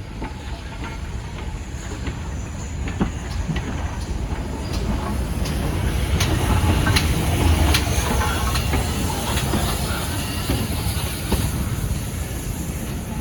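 Train running on the rails: a steady low rumble with scattered sharp clicks of the wheels on the track, growing louder toward the middle and easing slightly near the end.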